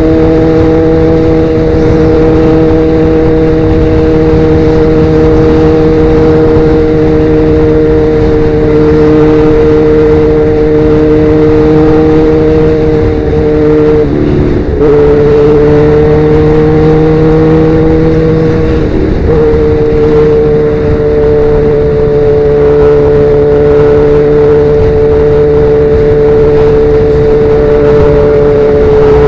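Sportbike engine through a Danmoto XG-1 aftermarket exhaust, cruising at a steady highway speed over a rush of wind. The engine note dips and changes about halfway through and again a few seconds later, then holds steady.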